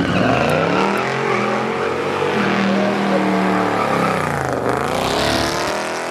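A car engine accelerating hard, its pitch climbing and holding, then dropping sharply at a gear change about four and a half seconds in before climbing again.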